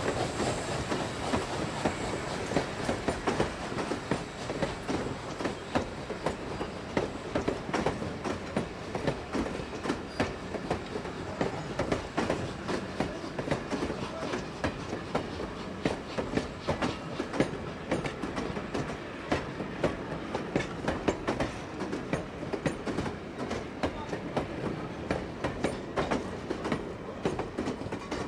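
Train rolling along the track, its wheels clattering over rail joints in a continuous rapid run of clicks over a steady rumble.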